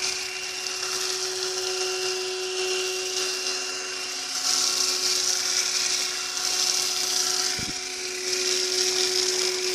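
Pressure washer running steadily with a constant whine while its foam cannon sprays soap with a hissing rush that swells a few times.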